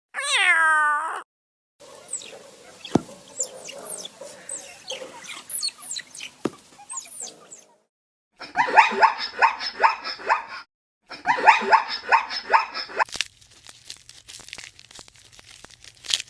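A string of separate animal calls: a short pitched call at the start, then a few seconds of chirps over a noisy background, then two bouts of rapid repeated calls about two seconds each.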